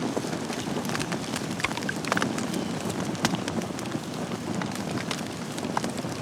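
Wood fire burning in a fireplace, a steady hiss with frequent crackles and a few louder pops.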